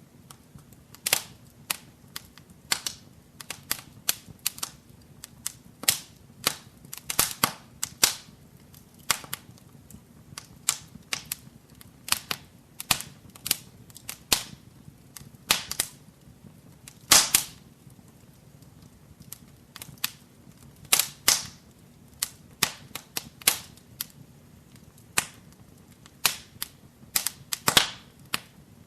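Wood fire in a fireplace crackling: irregular sharp snaps and pops, often several a second, with a few louder pops, the loudest about halfway through, over a faint steady low rumble.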